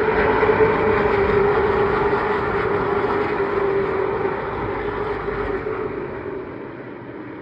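A pack of Pro Late Model stock cars racing past at full throttle, a loud steady engine drone that is loudest about a second in and fades away over the last few seconds.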